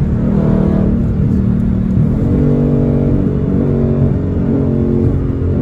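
Dodge Charger Scat Pack's 392 HEMI V8 running under way, its engine note stepping up in pitch about two seconds in and then holding.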